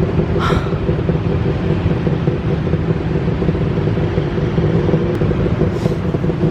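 Steady street traffic rumble with a low engine hum, and two short hissing sounds, about half a second in and near the end.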